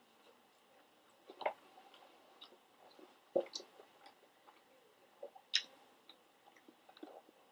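Faint close-up chewing and wet mouth clicks of someone eating pizza, with a few sharper crunchy clicks scattered through.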